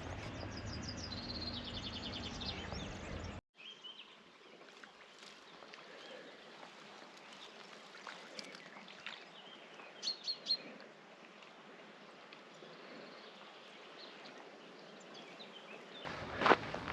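Outdoor countryside ambience with small birds chirping: a quick run of high chirps in the first few seconds, then, after an abrupt cut, a quieter stretch with a few faint calls. Footsteps on a trail start near the end.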